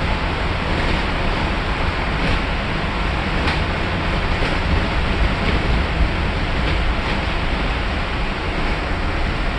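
Cabin noise of a 2010 Blue Bird bus driving at road speed: a steady rumble of engine, tires and wind, with a few light rattles from the body.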